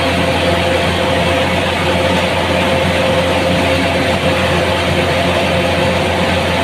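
An engine running steadily at a constant speed, with a steady hum.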